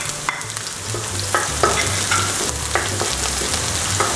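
Minced garlic and chopped red onion frying in hot oil in a wok, sizzling steadily while a wooden spatula stirs them and knocks against the pan about six times.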